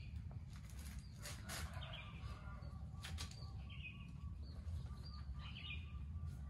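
Short bird chirps recurring about every second and a half over a steady low hum, with a few faint knocks.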